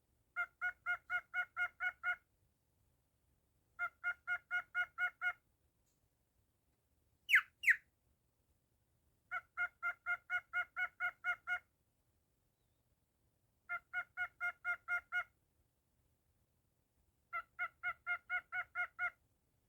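Cockatiel calling in runs of identical short honking notes, about five a second, each run lasting one to two seconds with pauses between. About seven seconds in come two loud, sharp downward-sweeping calls, the loudest sounds here.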